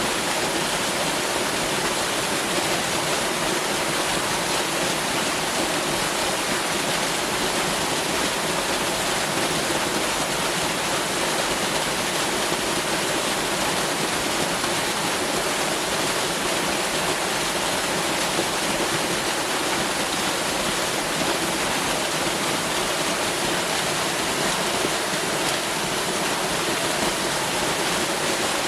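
Waterfall: a steady, unbroken rush of falling water, with little deep rumble.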